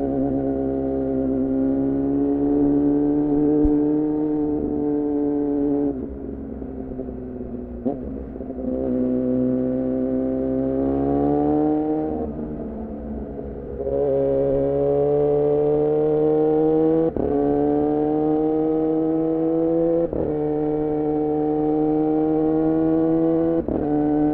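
2014 Yamaha R6 inline-four sport bike with an R9 titanium muffler and Leovince header, running at high revs under throttle: the engine note climbs steadily, then drops sharply at each upshift, three quick shifts in a row in the second half. Twice in the first half the note falls and goes quieter for a couple of seconds as the throttle eases before it climbs again.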